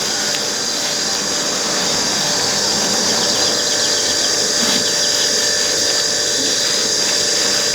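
A handheld power tool running steadily with a high whine.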